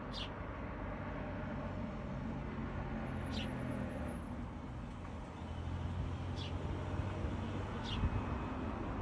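Four short, high-pitched bird calls, each a quick downward sweep, spaced a few seconds apart, over a steady low rumble of road traffic.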